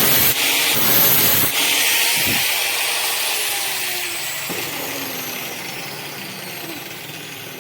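Electric drill running loudly with a hissing, high-pitched noise. After about a second and a half it slowly fades as the drill winds down, its whine falling in pitch.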